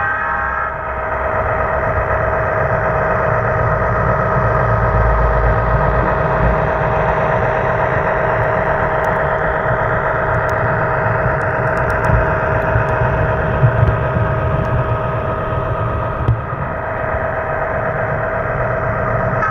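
Model 422 Class diesel locomotive's onboard sound running a steady diesel engine sound through its small speaker, with a few light clicks in the middle.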